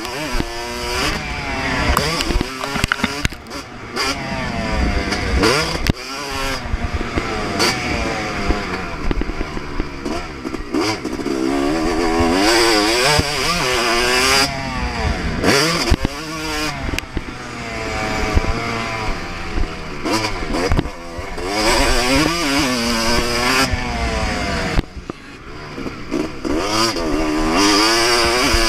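Yamaha YZ250 two-stroke motocross bike ridden at full throttle, its engine pitch repeatedly rising and falling as the throttle is opened and chopped through gear changes. Scattered knocks and clatter come through over the bumps.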